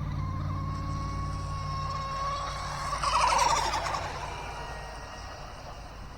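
Electric RC outrigger boat's brushless motor whining steadily at full throttle on the water. About three seconds in the sound swells into a louder, hissing rush for roughly a second, then fades away as the boat runs off.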